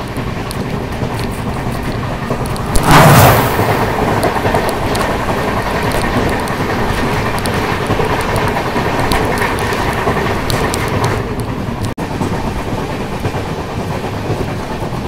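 Passenger train running along the track: a steady rumble of wheels on rails with faint clicks. About three seconds in there is a sudden loud blast lasting under a second.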